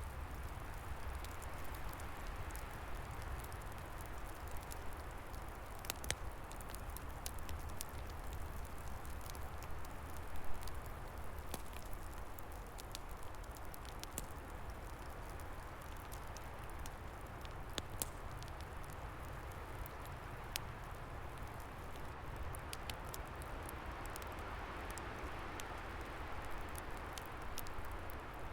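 Wood fire crackling, with scattered sharp pops and snaps and a slightly louder pop about a third of the way in, over a steady rush of wind through trees.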